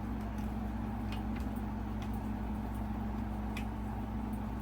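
A steady low hum, with a few faint light clicks from hands working on the fan's wiring about a second in and again past the middle.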